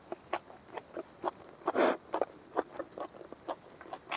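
A person chewing food by hand-fed mouthfuls, close to the microphone: irregular wet mouth clicks and smacks, with one longer, louder bite about two seconds in as she eats a fresh green onion stalk.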